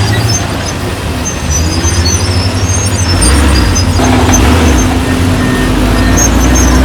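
Heavy diesel engine of construction machinery running under load, rising in level and stepping up in pitch about four seconds in, with short high-pitched squeaks over it.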